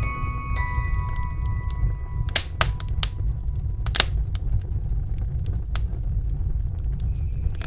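Wood fire in a fireplace crackling, with irregular sharp pops over a steady low rumble. The last notes of a song die away in the first second, and jingle bells start near the end.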